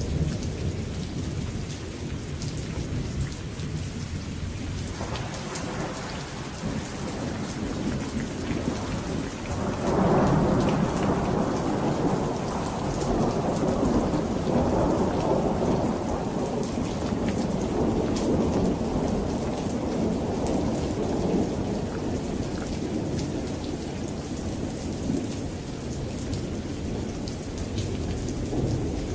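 Rainstorm: steady rain falling with scattered drop ticks, and a long roll of thunder that swells about ten seconds in and rumbles on for several seconds before fading.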